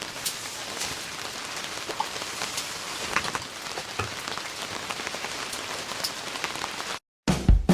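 Steady rain falling, with frequent sharp individual drop hits over the hiss. It cuts off abruptly about seven seconds in, and music begins just after.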